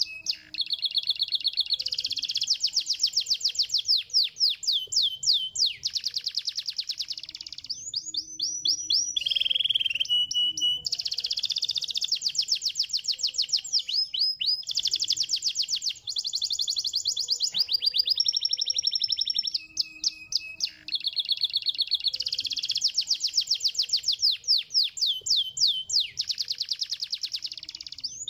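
Domestic canary singing a continuous, high-pitched song of rapid trills and rolls. Fast repeated-note runs alternate with quick sweeping notes, and some phrases recur during the song.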